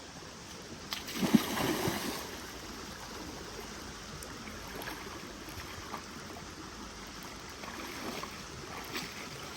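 Steady rush of moving water, with a louder burst of sound about a second in.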